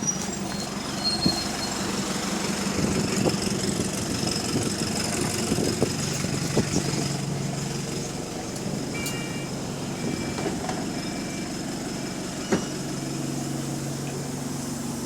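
Inside a moving bus: steady diesel engine hum with rattles and knocks from the bodywork, on a bus that has an exhaust leak. About nine to eleven seconds in come a few short high squeaks, the squeak this bus's brakes make when they are worked.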